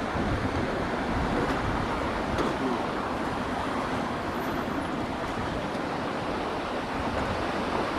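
Ocean surf washing on a beach: a continuous, steady rushing noise.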